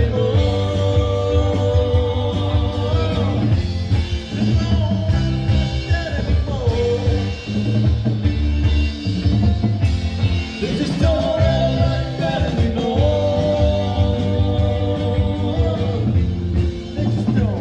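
Rock band playing with a singer, with steady bass and guitar under the vocal.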